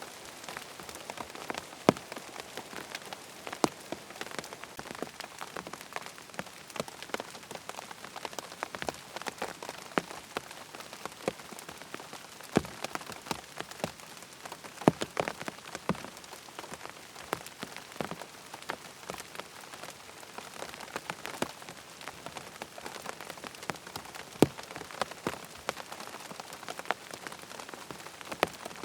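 Steady rain pattering on a tent's fabric, with a constant hiss and many sharp individual drop taps scattered irregularly over it.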